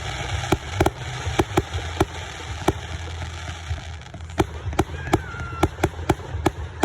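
Fireworks going off: a string of sharp bangs at irregular spacing, about two a second, over a steady low rumble.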